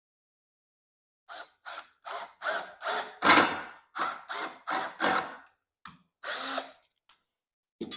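Power tool working into wood in a series of short bursts, each a fraction of a second long, with brief pauses between them. This is a small cut or hole for mounting screws.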